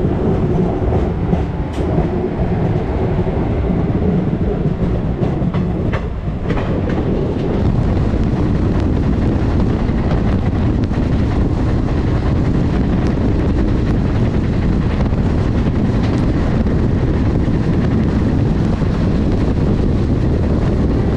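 Express train running along the track, heard from an open coach doorway: a steady rumble of wheels on rails with rushing wind and a few sharp clicks.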